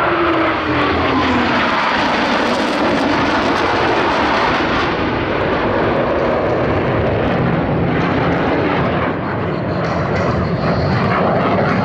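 Jet roar from a Blue Angels F/A-18 Hornet passing, with a whine falling in pitch over the first two seconds, then a steady roar.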